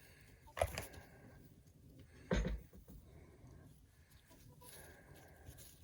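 Goats butting heads: two sharp knocks about a second and a half apart, the second one deeper.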